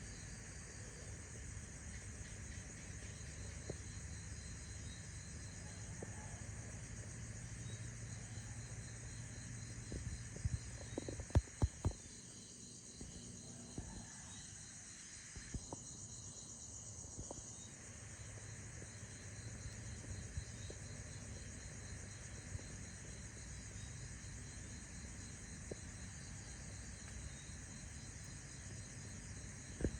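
Steady chorus of insects such as crickets, chirping in fine rapid pulses, over a low background rumble. A brief cluster of sharp clicks comes about eleven seconds in.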